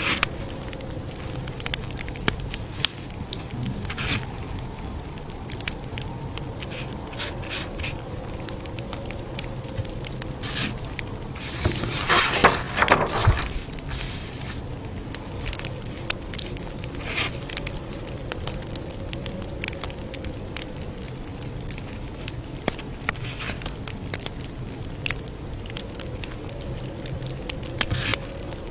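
Campfire crackling, with scattered sharp pops of burning wood and a denser burst of crackling about twelve seconds in, over a steady low hum.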